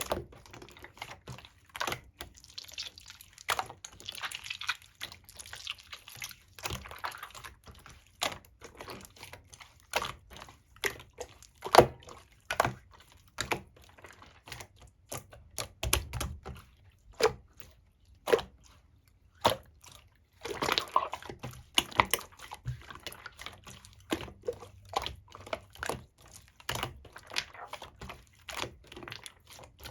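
Soft 'yogurt pudding' slime being squeezed, poked and stretched by hand, making an irregular string of wet, sticky clicks and squelches. A few stretches sound like a softer wet crackle.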